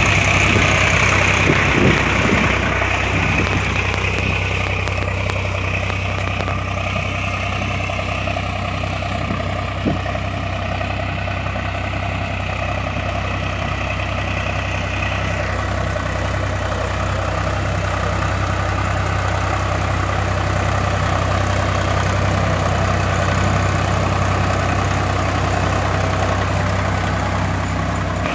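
Heavy machinery's diesel engine running steadily at idle, with one short knock about ten seconds in.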